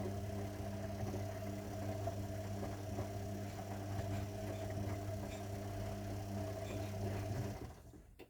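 Zanussi washing machine running with a steady hum and faint rattles, which cuts off about three-quarters of a second before the end.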